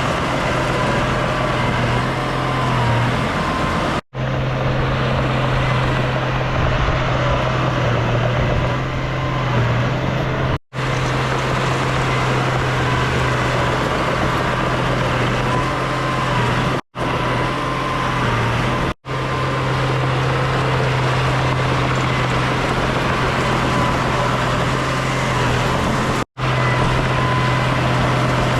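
Heavy diesel earthmoving machinery, a bulldozer and dump trucks at work, running steadily with a constant low engine drone. Five brief gaps of silence break it where the footage is cut.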